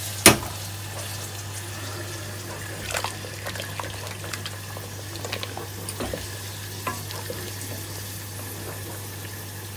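Onions frying in hot oil for a tadka while a pot of nihari bubbles on the gas hob: a steady sizzling hiss with scattered small pops. A sharp metal knock about a third of a second in is the loudest sound.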